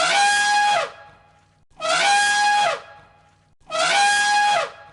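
Elephant trumpeting: three matching loud calls about two seconds apart, each about a second long and ending with a drop in pitch.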